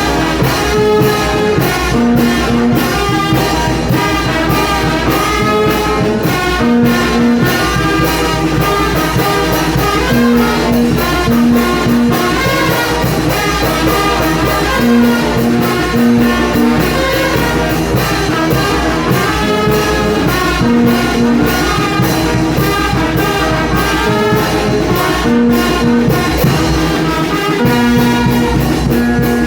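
Mexican brass band (banda) playing live, with trumpets and trombones carrying the tune over a steady low bass line, loud throughout.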